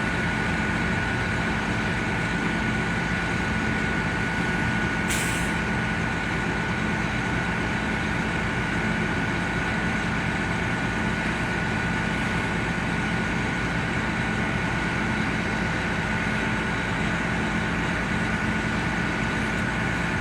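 Fire truck's diesel engine running steadily, with a steady high whine over a low hum. A short hiss about five seconds in.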